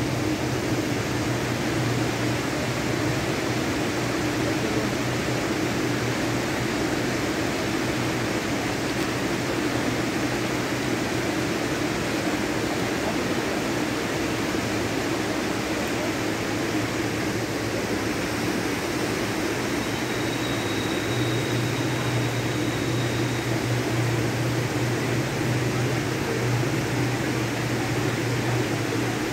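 Steady rumble of a long freight train of covered wagons rolling across the bridge, blended with the rushing of the waterfall behind it. A low hum swells near the start and again in the last third, and a faint high whine sounds briefly about two-thirds through.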